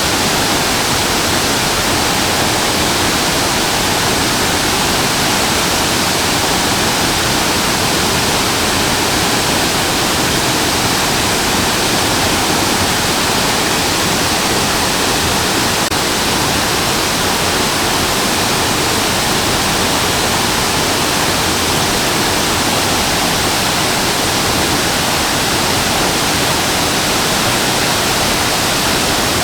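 Shasui Falls waterfall pouring: a loud, steady, unbroken roar of falling water.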